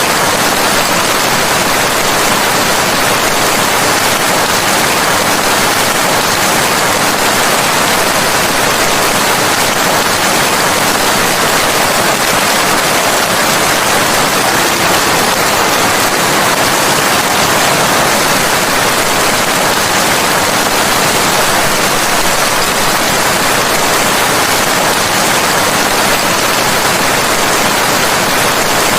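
Steady, heavy rain: a dense, even hiss of rainfall with no single drops or thunder standing out.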